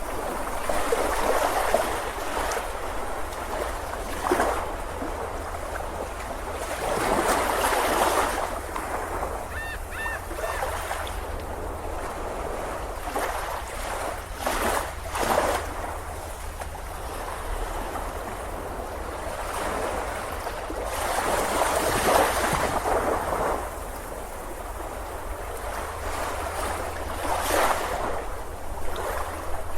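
Ocean surf: waves breaking and washing up the beach, each surge swelling and fading every few seconds.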